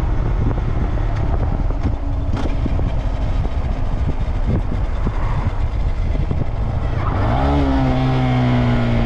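Motorcycle riding with a low rumble of wind and engine; about seven seconds in the engine note rises as it accelerates, then holds steady.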